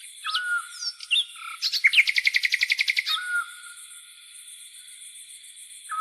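Songbirds calling: short whistled notes, then a loud, fast trill lasting about a second, over a steady high-pitched pulsing buzz of grasshoppers.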